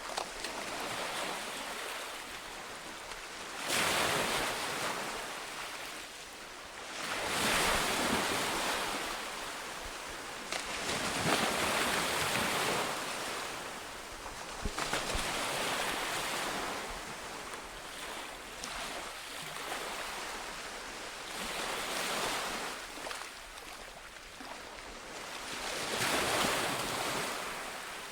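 Ocean waves breaking on a beach, the surf swelling and washing back every few seconds.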